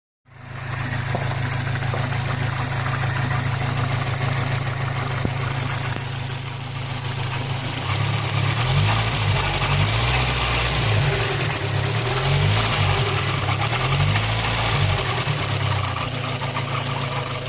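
Citroën Xantia 1.8's four-cylinder engine running at idle, with an unwanted mechanical noise. The owners place it inside the engine block, and wonder if it could be the timing-belt tensioner pulley.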